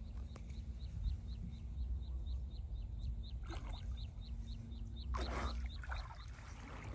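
A bird repeating a short, high chirp about four times a second over a steady low rumble, with two brief bursts of noise partway through.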